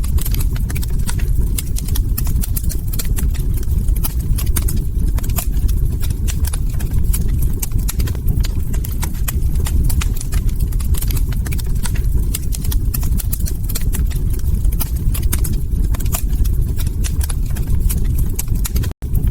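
Wood fire in a fireplace crackling, with many sharp, irregular pops over a steady low rumble of burning logs. The sound cuts out for an instant near the end.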